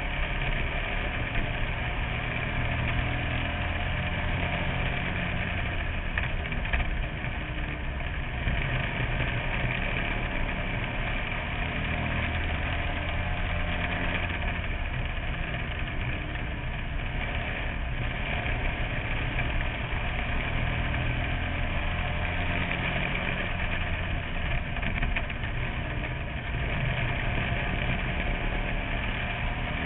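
Bandolero race car's small engine running steadily, heard from on board the car, its loudness swelling and easing a little as it goes.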